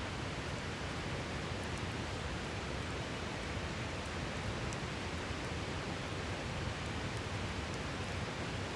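Steady rushing of a river flowing over rocks, with faint small crackles of a wood campfire scattered through it.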